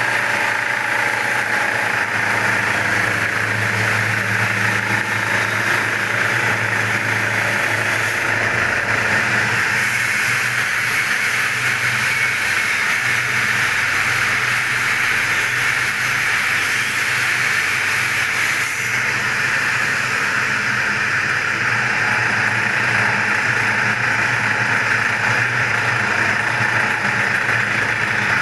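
A machine running steadily: an even hiss with a low, constant hum underneath, unchanging throughout.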